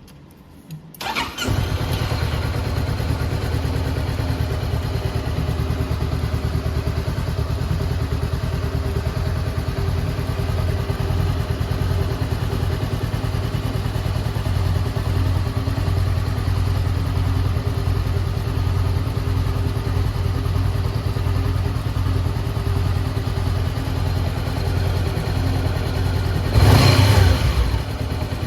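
Honda 400X's parallel-twin engine cranking briefly on the starter about a second in and catching, then idling steadily, with one quick rev of the throttle near the end.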